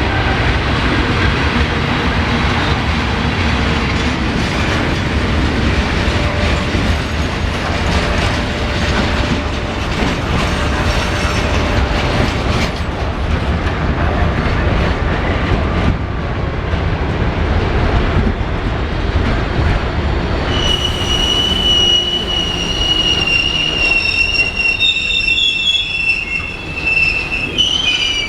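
Freight train passing: a steady rumble and clatter of wagons on the rails. About three-quarters of the way through, a high-pitched wheel squeal sets in, wavering and shifting in pitch near the end.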